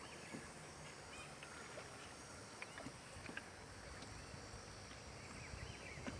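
Faint, steady rush of fast-flowing flood water around a small rowing boat, with a few small clicks and short faint chirps.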